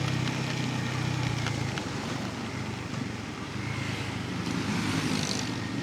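Pulsar N250 motorcycle riding along, its single-cylinder engine running steady with wind and road noise on the rider's mic. The engine's low note drops away after about two seconds, leaving mostly the rushing noise.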